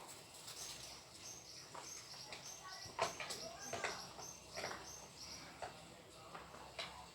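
Scattered light clicks and knocks of parts being handled during fan assembly, with a quick series of high-pitched chirps.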